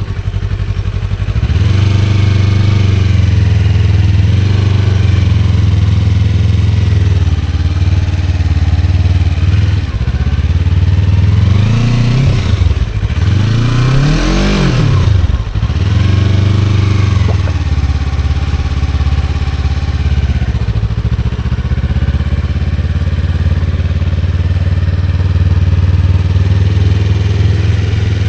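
Motorcycle engine pulling away about a second and a half in, then running at low, steady revs while the bike is ridden slowly. In the middle the revs rise and fall several times before settling back to a steady low note.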